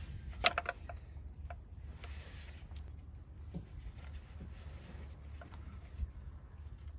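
Faint clicks and rubbing of hand tools working on the engine, with one sharper click about half a second in, over a low steady hum.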